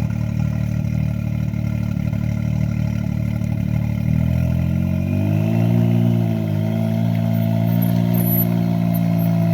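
Can-Am Maverick X3 Turbo RR side-by-side's turbocharged three-cylinder engine running at a steady low speed, its pitch rising and falling a little about halfway through.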